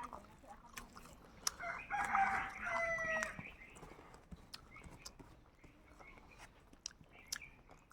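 A rooster crows once, starting about two seconds in: a single held call lasting about a second and a half, the loudest sound here. Short clicks and smacks of chewing are scattered around it.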